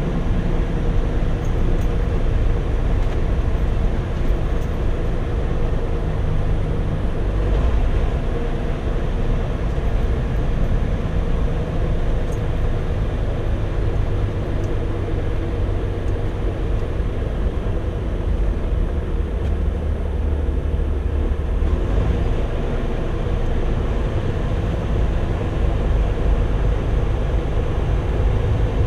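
Semi-truck's diesel engine and road noise heard from inside the cab at highway speed, a steady heavy hum.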